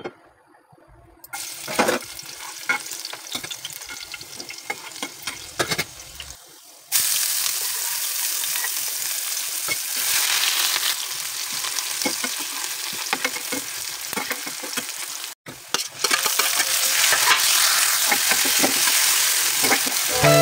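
Chopped onion, green chilli and corn frying in hot oil in a metal pan, sizzling, with a spatula scraping against the pan as it is stirred. The sizzle gets louder about seven seconds in.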